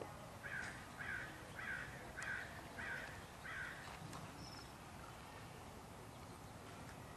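A bird calling six times in a steady series of short harsh calls, a little under two a second, then stopping.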